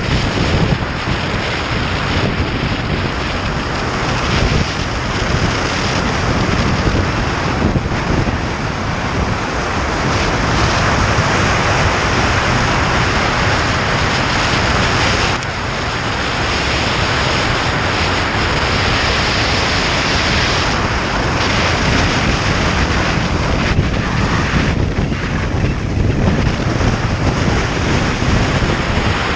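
Motorcycle riding along, heard mostly as heavy wind noise buffeting the microphone, with engine and road noise mixed in; steady throughout.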